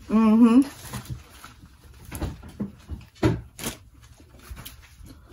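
A brief wavering voiced sound at the start, then scattered wet smacks and clicks of a person eating and chewing.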